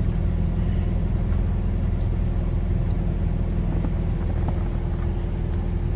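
Car engine running, a steady low hum with a few faint clicks over it.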